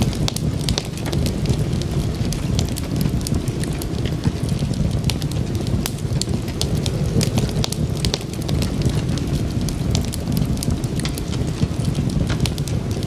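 Wood fire crackling and popping over a steady low rumble of burning, with frequent irregular sharp snaps.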